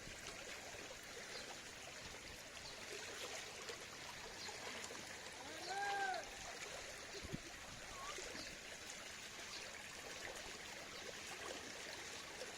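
Water flowing and trickling steadily through a flooded rice field. About six seconds in, one short call rises and falls in pitch, and a brief low knock follows a moment later.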